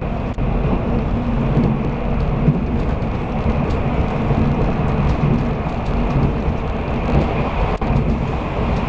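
Running noise of a Taiwan Railway train heard from inside the carriage: a steady low rumble with faint clicks.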